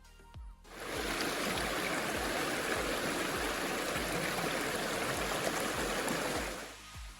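River water rushing in a steady wash that comes in about a second in and drops away near the end, over background music with a steady low beat.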